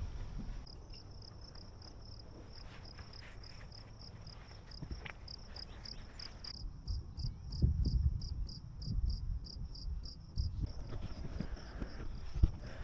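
An insect chirping in a steady, high-pitched rhythm, a few chirps a second, over irregular low rumbles and knocks.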